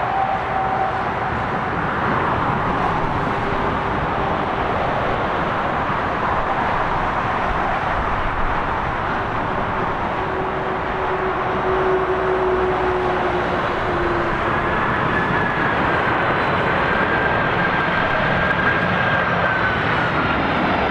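Jet airliner engines running as the plane passes: a steady rush of noise with faint whining tones that drift slowly in pitch.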